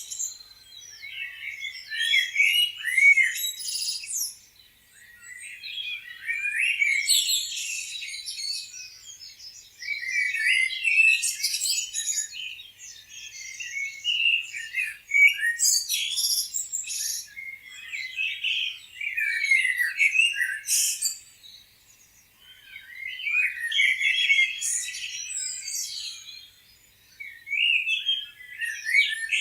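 Several small birds chirping and trilling together in bouts of a few seconds, with short lulls between them.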